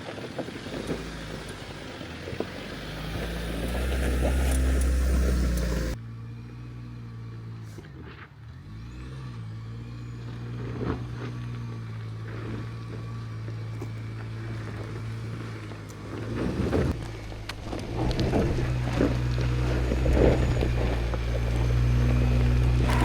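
A 4x4's engine running at low revs as it crawls through deep ruts, with occasional knocks from the tyres and suspension working over the ground. The sound changes abruptly about six seconds in, and the engine grows louder again near the end.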